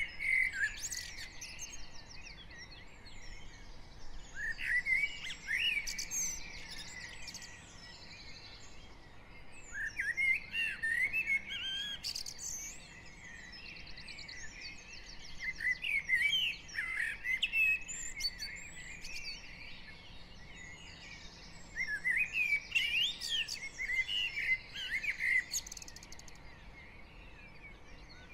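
Dawn chorus of garden songbirds: one bird sings a warbling phrase of two to three seconds about every five or six seconds, over fainter high chirps and trills from other birds.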